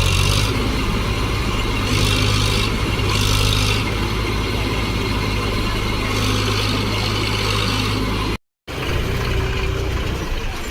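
Farm tractor's diesel engine running steadily, with the sound cutting out completely for a moment near the end.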